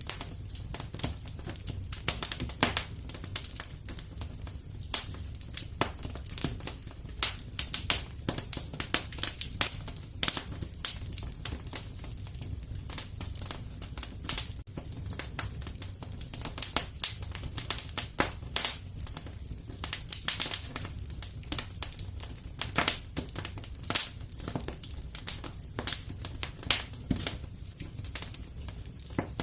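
Wood fire crackling in a fireplace: dense, irregular pops and snaps over a low steady rumble.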